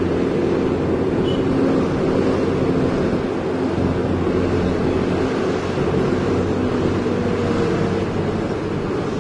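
Heavy diesel engine running steadily with a constant drone.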